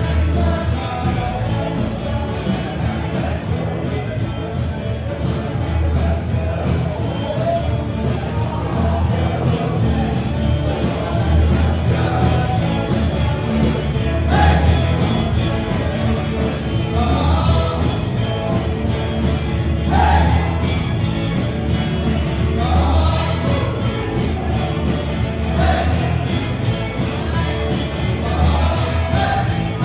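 A band playing live, with singing over a strong bass and a steady, evenly spaced cymbal beat.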